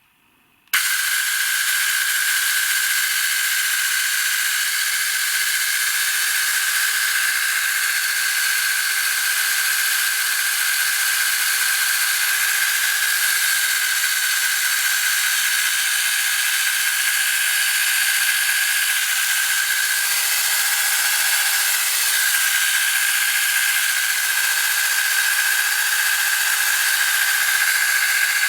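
Aceline CCS10 cordless electric chainsaw switching on about a second in and running steadily at full speed: a loud, high-pitched whine with a steady tone.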